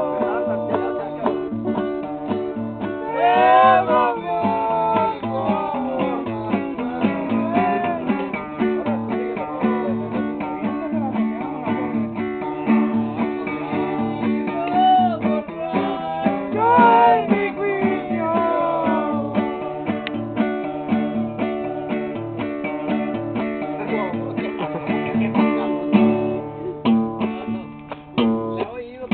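Acoustic guitar strummed steadily, with a voice singing over it in phrases that waver in pitch.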